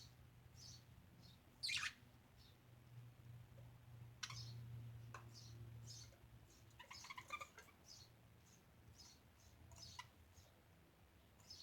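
Pet budgerigars giving faint, scattered short chirps, with a sharper chirp about two seconds in and a quick cluster of chirps around seven seconds, over a low steady hum.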